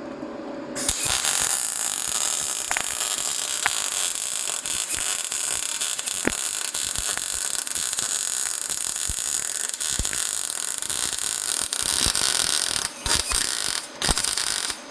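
Wire-feed (MIG) welder arc crackling steadily as a bead is laid to build up a gap, starting about a second in. Near the end it stops and restarts in a few short bursts.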